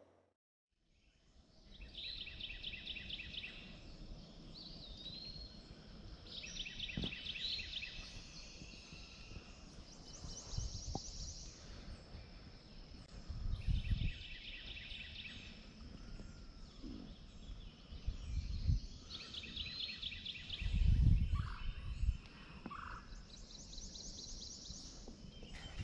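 Birds calling at dawn by a river: a trilled call about a second long repeats every few seconds among shorter chirps. A few dull low thumps come in between.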